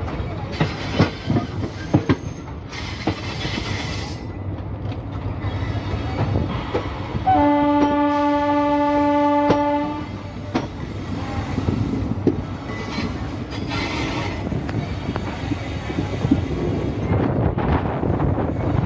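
Passenger train running slowly, its wheels knocking over the rail joints. About seven seconds in, a train horn sounds one steady blast of about two and a half seconds.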